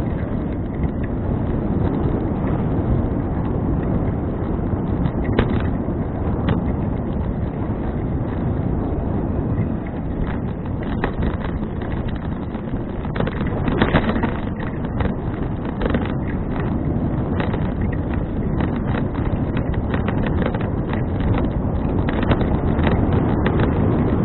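Wind buffeting an action camera's microphone while riding a bicycle: a steady low rumble with scattered clicks.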